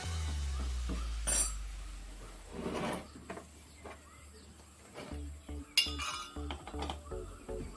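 Metal tools and parts clinking and knocking against each other in scattered, irregular hits, with one sharp clink about six seconds in.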